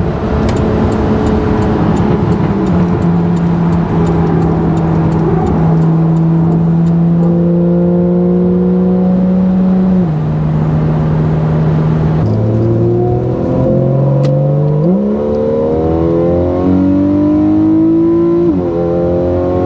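Porsche 911 Carrera 4 GTS (991) 3.8-litre flat-six heard from inside the cabin on the move: steady cruising revs that step down at each upshift, then about fifteen seconds in the engine note climbs under acceleration, with a brief dip at a gear change near the end.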